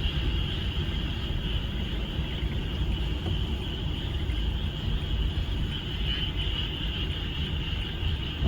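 A dense chorus of frogs calling together, a steady high-pitched trilling din, over a heavy low rumble.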